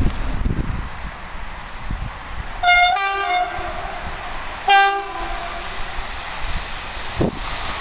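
French train's horn sounding two short blasts about two seconds apart, each with two notes together, over a steady rumble.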